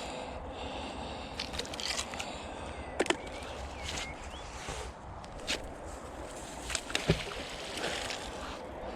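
Water sloshing outdoors, with a few sharp knocks, once about three seconds in and again about seven seconds in, as a magnet and rope are worked in the water.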